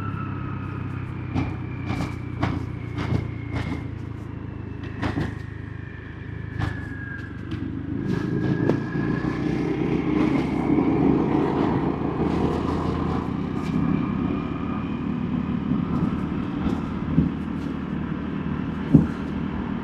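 Motorbike engine running steadily on the road, with slowly shifting engine pitch and traffic noise around it. Several sharp knocks come in the first few seconds, the noise grows louder from about eight seconds in, and there is one sharp knock near the end.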